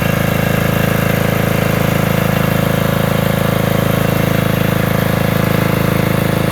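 A portable generator's engine running steadily with a fast, even firing beat, warming up after a cold start from months of sitting.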